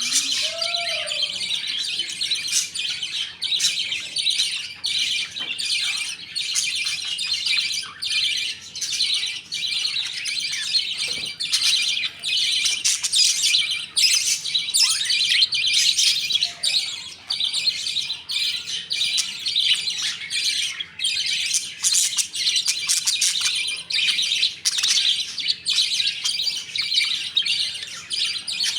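A colony of budgerigars chirping and chattering continuously, many birds calling over one another at once.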